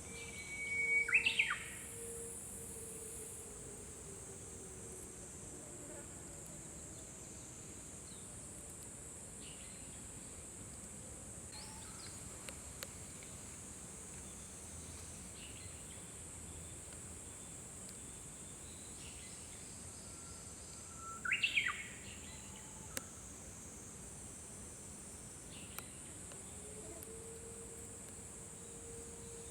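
Japanese bush warbler (uguisu) singing its song twice, about twenty seconds apart: each time a held whistle that breaks into a quick flourish. A steady high hiss runs underneath.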